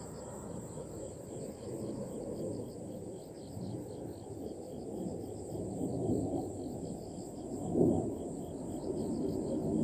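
Crickets chirping in steady, evenly repeating pulses over a low rumbling noise, with a louder thump about eight seconds in.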